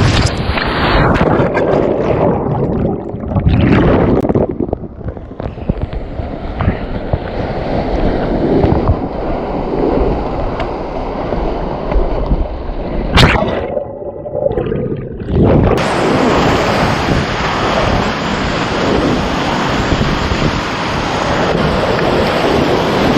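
River water rushing and splashing around a kayak, with wind buffeting the microphone. There is a sharp knock about thirteen seconds in. The sound then goes muffled for about two seconds before the full rush of water returns.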